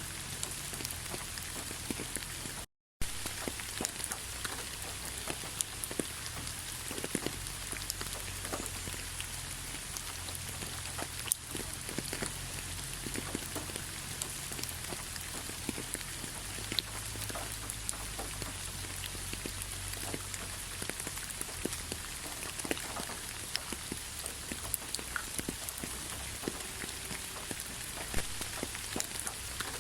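Light rain falling steadily: an even hiss with many scattered drops ticking on surfaces. The sound cuts out completely for a split second about three seconds in.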